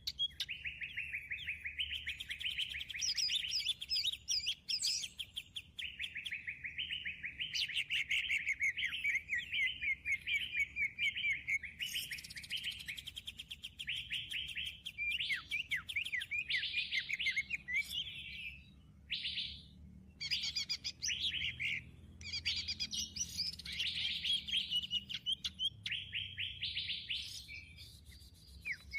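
Dense, rapid bird chirping and trills from a bird-trapping lure call (suara pikat) played back as an MP3, nearly continuous with a brief pause about two-thirds of the way through.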